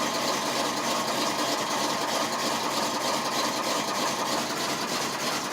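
1988 GMC 6000 box truck's 454 V8 idling steadily just after a cold start, at normal idle rather than high idle. It sounds sweet and runs smoothly.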